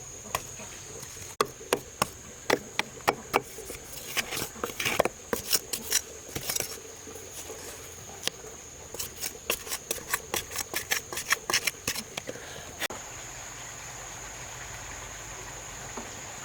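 A run of sharp knocks at uneven spacing, sparse at first and then in quicker bursts, stopping near the end, typical of hand-tool work on wood. Under it a steady high insect drone, like crickets, carries on throughout.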